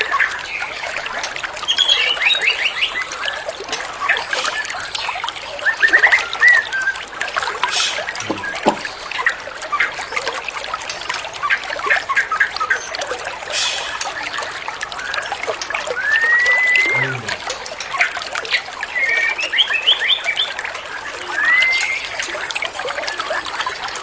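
White-rumped shama (murai batu) singing a varied song of short whistles, curved rising-and-falling notes and quick trills, over steady trickling water.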